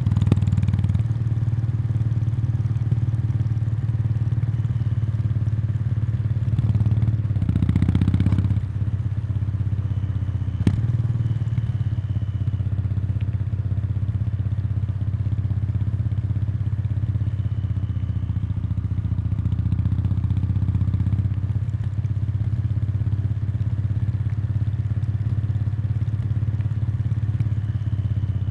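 Kawasaki Meguro K3's 773 cc air-cooled parallel twin running through its stock muffler, heard close to the exhaust outlet. The deep, even exhaust note holds steady, with a brief rise in revs about seven to eight seconds in and a single sharp click a few seconds later.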